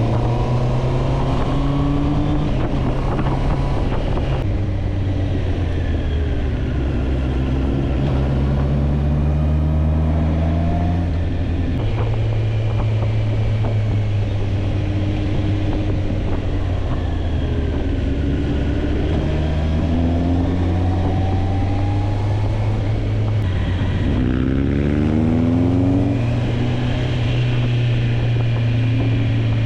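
Motorcycle engine under way, its note climbing as it pulls and stepping down at gear changes several times, over a steady rush of wind.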